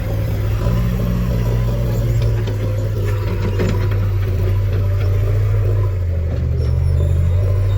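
Heavy diesel engine running steadily, its pitch shifting a little about six seconds in.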